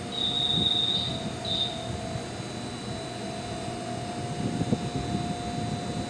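A JR 205-series electric train at the platform, most likely pulling out: a low rumble with a steady whine underneath. A high beep sounds just after the start for about a second, followed by a shorter one.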